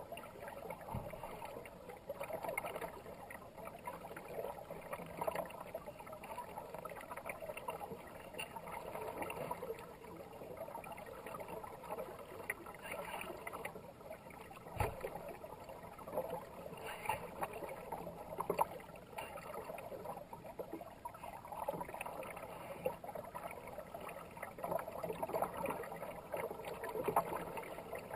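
Kayak paddle strokes splashing in river water, with water rushing along the hull, in uneven swells. There is a single low thump about 15 seconds in.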